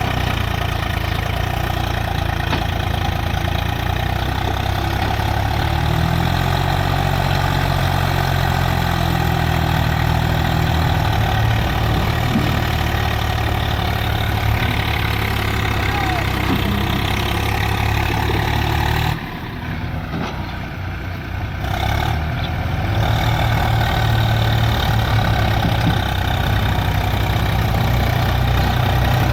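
Heavy diesel engines of tractors and a backhoe loader running under load. The engine pitch rises in a rev about six seconds in, holds, then eases back. The sound drops briefly and goes duller about two-thirds through before the engines come back up.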